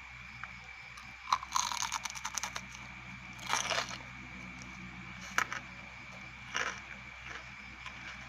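Crunching and chewing of crispy fried grasshoppers close to the microphone: a quick run of crackly crunches about a second in, a denser burst in the middle, then a few single crunches.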